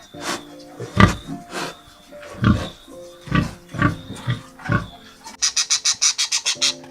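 Pig grunting repeatedly, about one short grunt every half second to a second, over background music. Near the end a fast run of high, sharp calls starts, about six a second.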